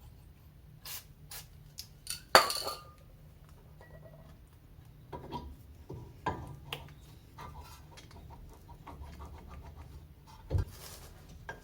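Metal tools and parts clinking and knocking while being handled, with one louder ringing clank about two seconds in and a sharp knock near the end.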